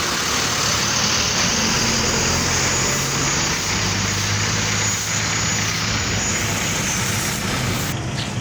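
Heavy truck's diesel engine running steadily close by, with a thin high steady whine above it that fades out about seven seconds in.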